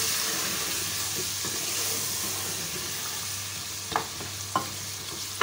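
Chicken and potato pieces sizzling in hot oil in a metal pot as they are stir-fried (bhuna) with spices. Near the end, three sharp knocks of the stirring spoon against the pot.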